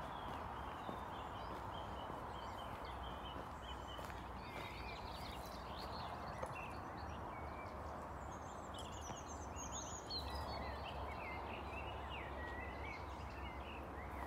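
Small birds singing and chirping over a steady outdoor background hiss.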